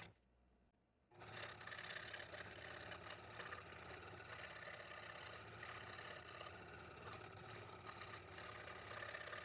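Scroll saw running and cutting wood, a steady fast-pulsing mechanical buzz that starts about a second in.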